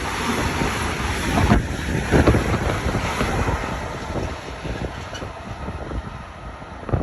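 A passing train: a loud, even rush that fades after about two seconds, with wind buffeting the microphone.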